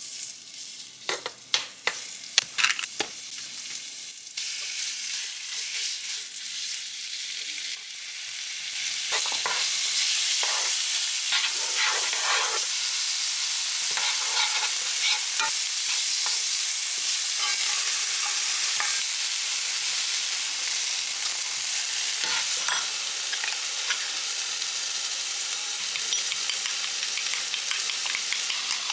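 Cookware clinking a few times, then food frying in a pan: a steady sizzle with crackling that grows louder about nine seconds in.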